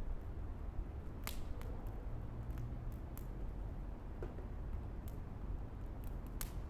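Wood fire crackling, with scattered sharp pops over a low steady rumble; the loudest pops come about a second in and near the end.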